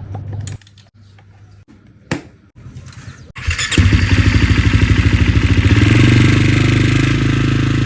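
KTM 6 Days dirt bike engine starting about a third of the way in, after a quiet stretch with a couple of clicks, then running with a fast, even firing beat that rises a little around the middle.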